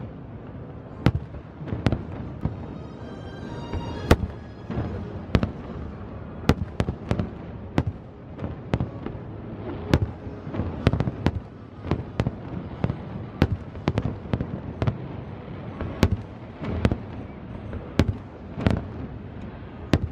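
Fireworks show: aerial shells bursting in a continuous barrage, sharp bangs coming irregularly about one to two a second over a steady low rumble.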